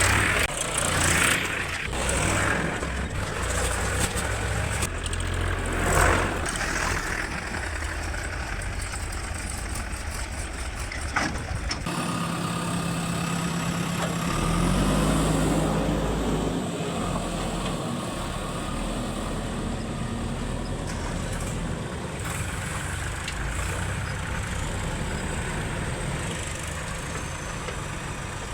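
Heavy diesel machinery running steadily, with a few sharp knocks in the first part. About halfway through, one engine's note rises and falls again.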